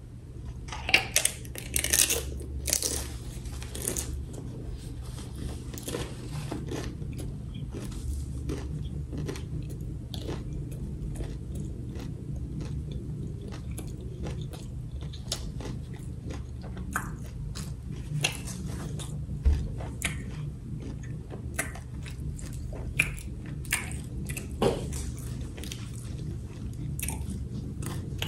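Close-up eating sounds: a person chewing and crunching food, with several louder crunchy bites in the first few seconds, then steadier chewing and wet mouth clicks over a low steady hum.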